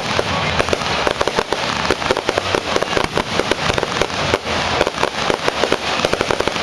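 Fireworks display: aerial shells bursting in a rapid, unbroken barrage of bangs, several a second.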